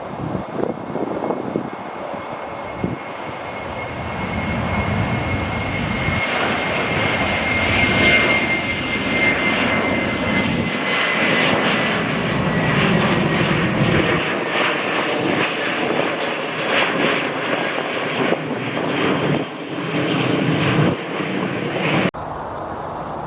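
Airliner's engines growing louder over the first several seconds to a steady, loud rumble, with a thin high whine that slowly falls in pitch. The sound cuts off suddenly near the end.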